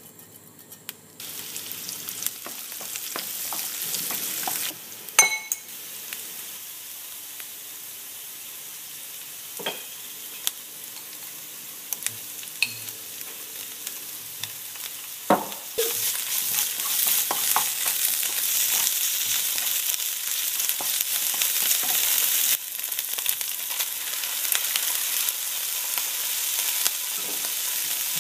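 Onions and spices frying in hot oil in a non-stick pan: a steady sizzle as they are stirred, with a few sharp knocks and a ringing clink along the way.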